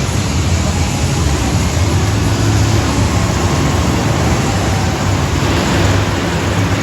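Monster truck engine running steadily with a low, even drone, under loud noise filling the arena.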